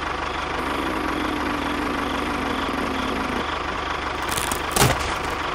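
Tractor engine running steadily at idle, with a low, even chugging pulse. Near the end there is a brief, sharp, louder noise.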